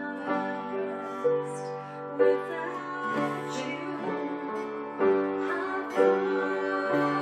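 Worship chorus: singing with piano accompaniment, held notes over changing chords.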